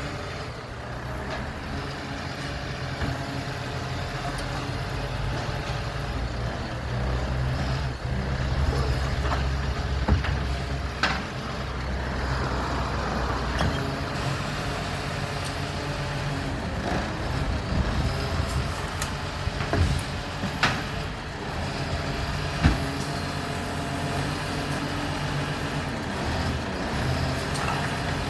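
Garbage truck's diesel engine running steadily, with several sharp knocks scattered through.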